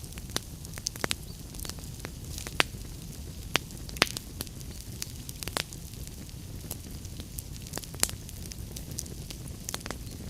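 Wood fire in a fireplace burning with a steady low rumble and irregular sharp crackles and pops, a few louder snaps standing out.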